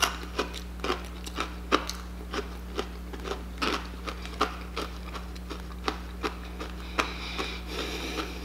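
Chewing crunchy fried chicken: an irregular run of sharp crunches, a few a second, over a steady low hum.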